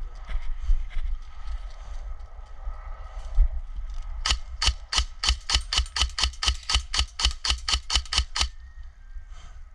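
Airsoft gun firing a rapid string of about twenty shots, roughly five a second, for about four seconds starting near the middle, then stopping abruptly.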